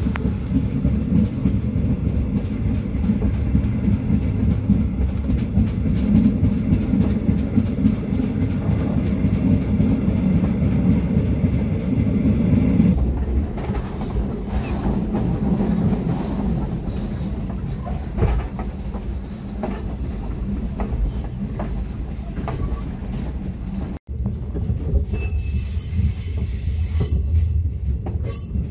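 Passenger train coach rolling along the track, heard from inside: a steady low rumble of wheels on rails with rhythmic clickety-clack. The rumble drops noticeably about halfway through.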